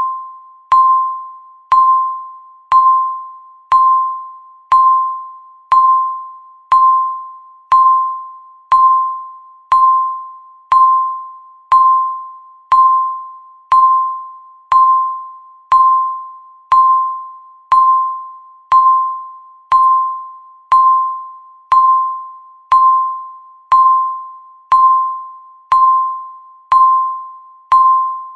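Countdown timer's tick: a short electronic ding that rings and fades, repeating steadily once a second to mark each second counted down.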